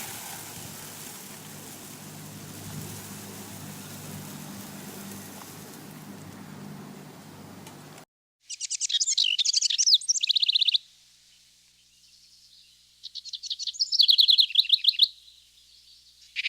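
A songbird singing in two phrases of rapid, high chirping trills, with a short start of a third near the end. For the first eight seconds before it there is only a steady outdoor background hiss with a low hum, which then cuts off abruptly.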